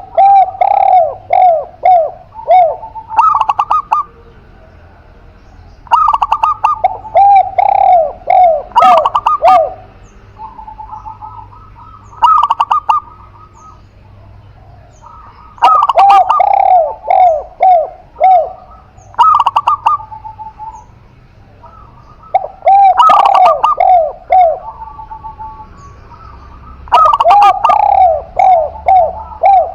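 Spotted dove and zebra dove cooing in repeated bouts of a few seconds. Each bout is a quick run of falling notes, with short pauses between them.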